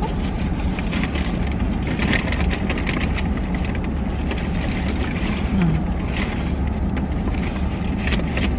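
Steady low rumble of a car cabin, with small scattered clicks and rustles on top.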